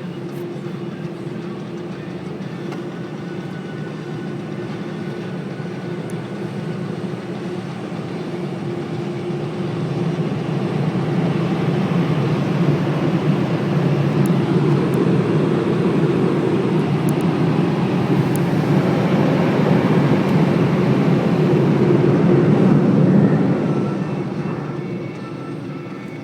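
Automatic car wash machinery running with a steady rushing noise and hum, swelling over about fifteen seconds and then fading near the end, typical of the air dryer passing over the car.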